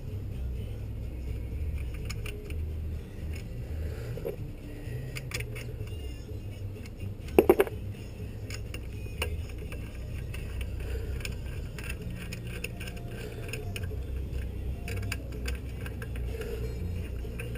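Metal parts and hand tools clinking and rattling as they are handled, with a short burst of loud, sharp metallic clinks about seven seconds in, over a steady low hum.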